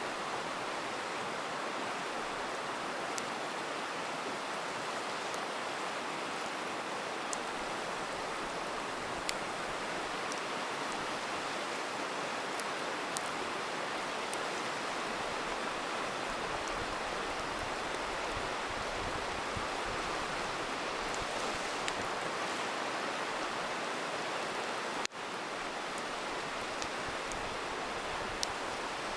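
River rushing steadily, with a few faint, sharp pops from a crackling campfire scattered through it. The sound dips out for an instant about 25 seconds in and comes straight back.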